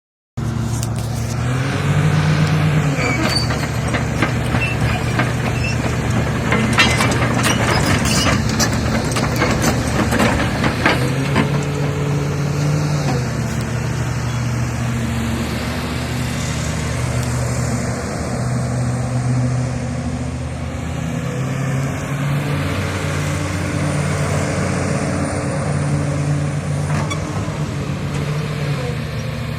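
Hydraulic excavator's diesel engine running under varying load, its pitch stepping up and down as it works. A stretch of sharp clanks and knocks comes in the first third.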